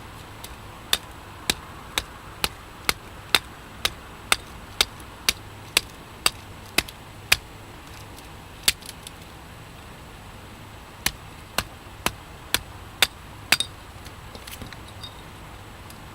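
Hatchet striking a microwave oven transformer, sharp metallic blows about two a second: fourteen in a row, a single one, then six more after a pause. The blows are knocking the copper windings out of the transformer's steel core.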